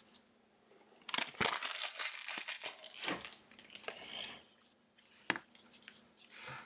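Plastic wrapper of a trading card pack crinkling and tearing as it is handled and opened, in crackly spurts, with a single sharp tick about five seconds in.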